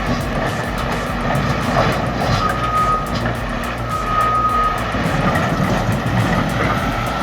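Bulldozer's diesel engine and tracks running steadily while its reversing alarm beeps twice, with a fainter third beep near the end, as the machine backs up.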